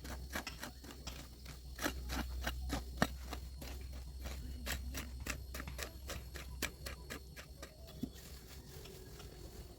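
Hand tool chopping and scraping through weeds and soil, several short sharp strokes a second in an uneven rhythm.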